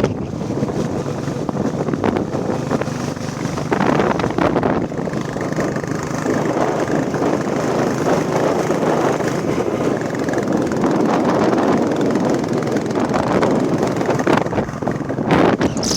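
Royal Enfield Bullet Classic 350's single-cylinder engine running steadily while riding, under a constant rush of road and wind noise.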